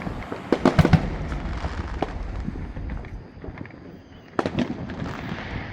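Fireworks shells bursting overhead: a quick cluster of sharp bangs about half a second in, then single bangs around two seconds and about four and a half seconds in, over a low rumble.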